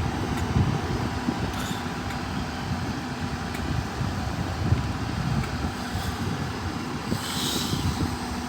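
Class 158 diesel multiple unit running at the platform, its engine droning steadily with a low rumble. A short hiss of air comes about seven seconds in.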